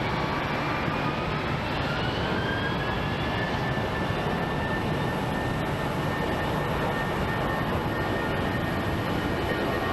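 Jet airliner departing at takeoff power: a steady jet-engine noise with a whine that rises over the first few seconds and then holds steady.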